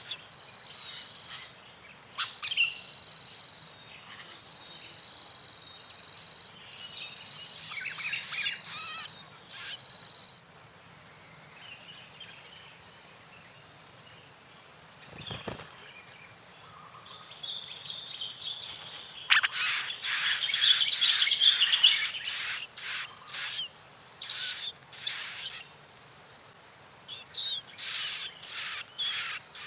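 Steady, high, pulsing trill of a cricket chorus, with scattered short bird chirps over it that bunch into a louder flurry about two-thirds of the way through.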